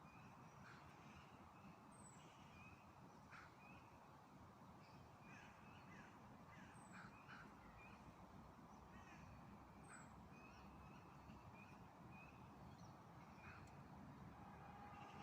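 Faint songbird chirps, short and scattered, with a high thin falling call repeated every few seconds, over a steady low background rumble.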